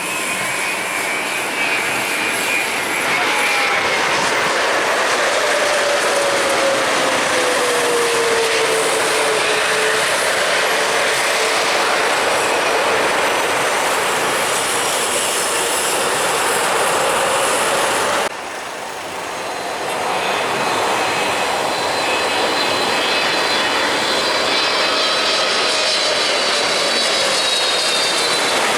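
Jet airliner engines passing close by: a loud, steady rush with a whine that slides down in pitch as the aircraft goes past. The sound cuts off abruptly about two-thirds through and another jet's engines build up, with a high whine.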